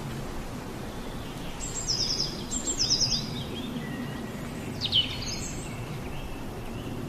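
Outdoor ambience with a steady low background noise and a small bird calling: two short phrases of quick, high, falling chirps about two and three seconds in, then another brief high call about five seconds in.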